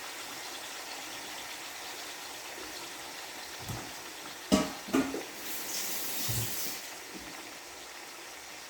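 Whole chicken frying in hot ghee, sizzling steadily. A few clatters come in the middle, followed by a louder burst of sizzle lasting about a second.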